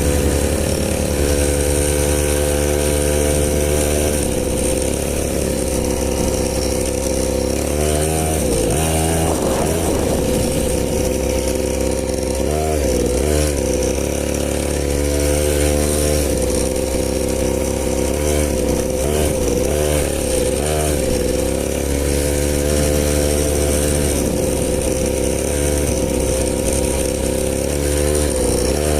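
50cc dirt bike engine running at high revs, mostly steady, with its pitch dipping and climbing back a few times as the throttle is eased and reopened.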